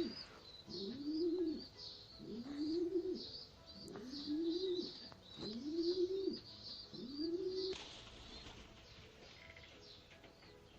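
Domestic pigeon cooing: a run of about six rising-and-falling coos, roughly one every second and a bit, stopping about eight seconds in. High chirping goes on above the coos.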